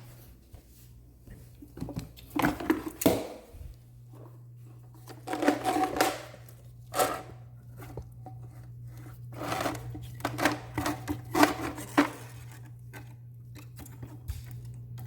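Irregular scraping and rustling in uneven bursts as a drain-cleaning tool is worked in a sink drain to pull out a hair clog, over a steady low hum.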